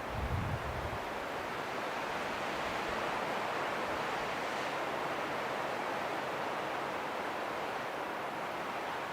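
Steady rushing of wind, an even noise without rhythm or tone, with a brief low buffet in the first second.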